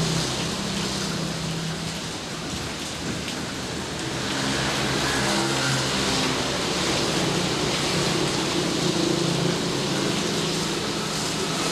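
Steady heavy rain falling, with a low rumble underneath that swells about four seconds in and fades near the end.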